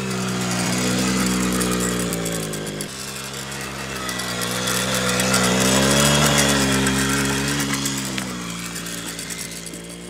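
Small petrol quad bike engine running under a child rider, its pitch rising and falling as the throttle is opened and eased, with a sharp drop about three seconds in. It grows louder to a peak about six seconds in, then fades.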